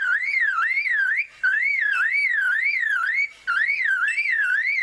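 Superb lyrebird mimicking a car alarm: a loud warbling whistle that swings up and down about three or four times a second, broken by two brief pauses.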